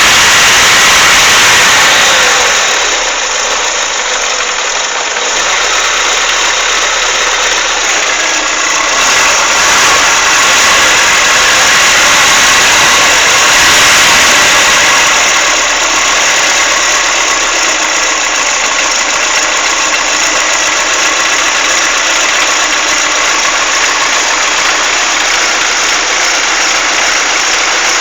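Chevrolet Monza four-cylinder engine running at idle with a strange noise that the owner suspects could be a lifter (tappet) or piston slap.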